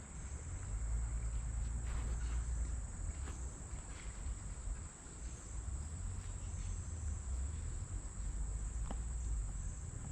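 Steady high-pitched chorus of insects, over a low rumble and a few faint clicks.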